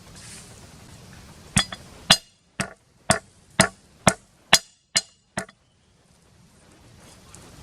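A series of about ten sharp knocks, roughly two a second, each with a short ring, starting about a second and a half in and stopping about five and a half seconds in.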